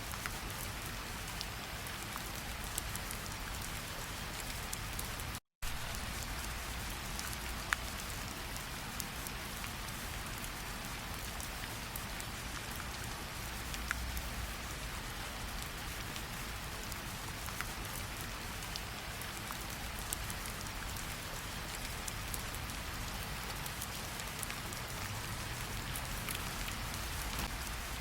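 Steady rainfall, a dense even patter with occasional single drops ticking out more sharply. The sound drops out completely for a split second about five and a half seconds in.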